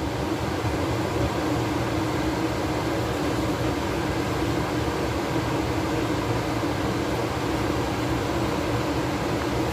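Steady, unchanging machine whirring with a low hum, like a fan running.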